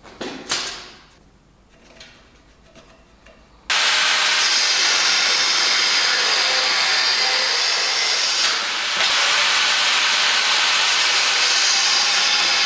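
A few light metal clinks, then a metalworking tool starts suddenly and runs with a loud, steady hiss, with a brief dip about halfway through.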